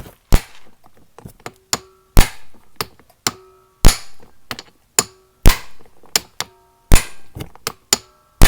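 Hammer striking a manual impact driver (shock driver) to break loose a screw that is close to stripping: six heavy metal blows about one and a half seconds apart, with lighter taps between, and a short metallic ring after several blows.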